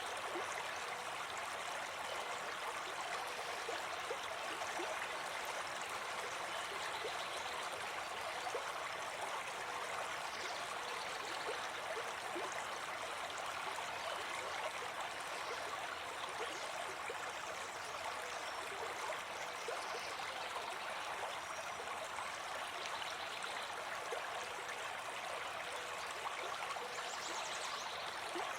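A small brook babbling steadily, water trickling and splashing with fine scattered gurgles.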